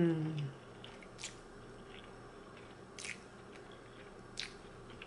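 A person chewing a mouthful of spaghetti, with three short wet mouth smacks spaced about a second and a half apart. A low hummed "mmm" trails off right at the start.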